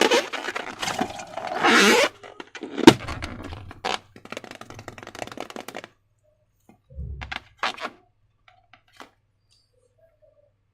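Slime and balloons being handled by hand: crackling, scraping noises with a sharp knock about three seconds in. After that come a soft low thump and a few small clicks.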